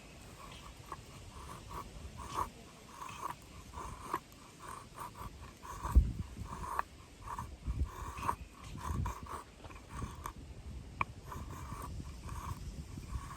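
Repeated short scraping strokes of a blade on wood, with a few dull low knocks in between.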